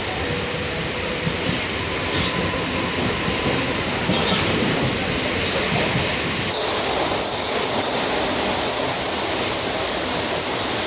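Mumbai suburban local train pulling into the platform: a steady rumble of the rolling train, joined about two-thirds of the way in by a high, sustained squeal of the wheels and brakes as it slows.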